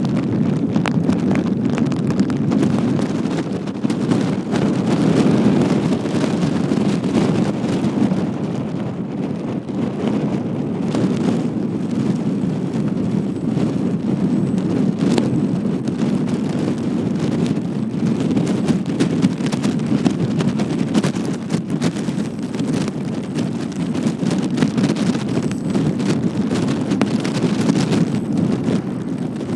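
Wind buffeting the microphone on a boat: a steady low rumble.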